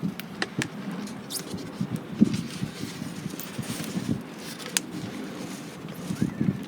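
Wood campfire crackling, with sharp pops at irregular intervals over a low steady rush of the flames.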